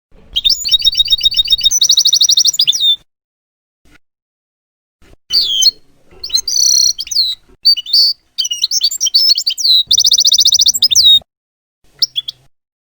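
European goldfinch singing: quick, rapidly repeated trills and twittering notes in two phrases, with a pause of about two seconds between them and a few short notes near the end.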